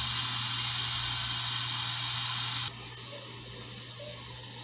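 Steam hissing out of an electric pressure cooker's release valve as the pressure is let out, slowing as it runs down. The hiss drops suddenly to a quieter level a little past halfway, over a faint low hum.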